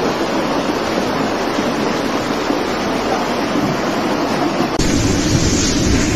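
Steady noise of storm wind and rough surf. Near the end it cuts suddenly to another, louder stretch of wind-blown noise with more low rumble.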